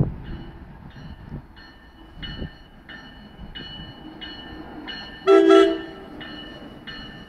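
A train's bell ringing steadily, a little under two strikes a second, over the low rumble of the train. A short, loud horn blast sounds about five seconds in.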